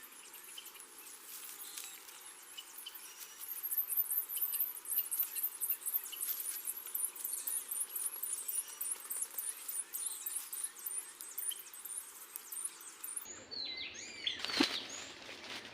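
Rapid, very high-pitched chirping, typical of insects, repeating several times a second over a faint outdoor hiss, with scattered small clicks. Near the end it gives way abruptly to rustling and clicking.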